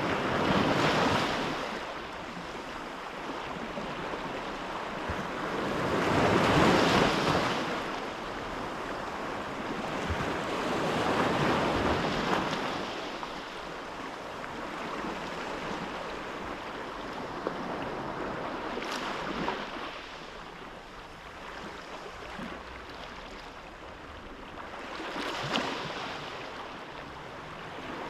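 Sea waves washing in and drawing back, the surge rising and falling every several seconds, with some wind.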